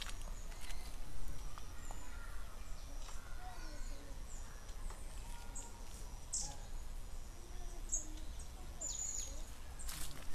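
Scattered short, high bird chirps over a steady low outdoor rumble.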